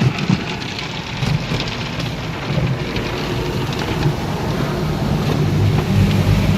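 Car wash water jets spraying and spattering over the car, with a steady low machine hum that grows louder near the end.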